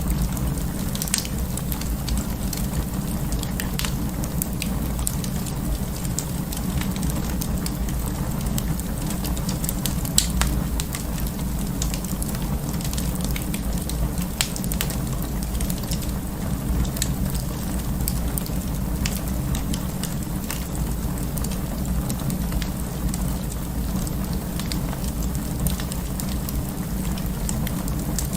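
Wood fire burning in an open fireplace: a steady low rumble of flames with irregular crackles and snaps, the loudest pop about ten seconds in.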